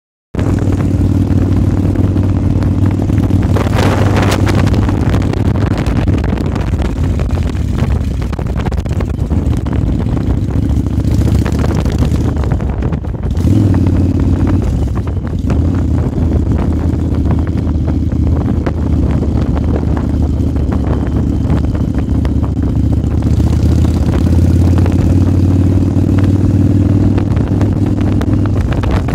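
Yamaha Virago 1100's air-cooled V-twin engine running at a steady road speed, heard from the rider's seat, with wind rushing over the microphone. The engine note dips and then picks up again about halfway through.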